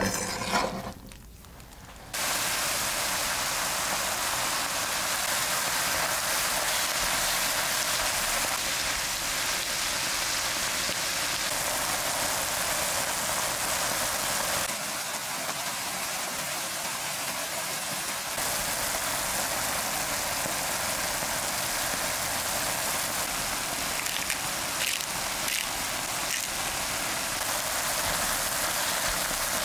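Minced beef with onion, red bell pepper and tomato sizzling steadily in a frying pan, a dense hiss that starts abruptly about two seconds in. Just before, a brief scrape of a knife gathering chopped tomato on a cutting board.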